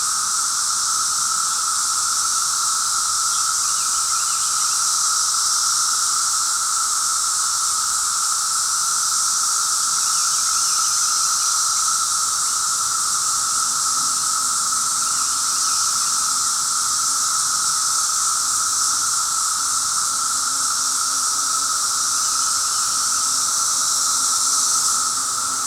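Dense chorus of periodical cicadas: a loud, steady, unbroken drone that hurts the ears after a while.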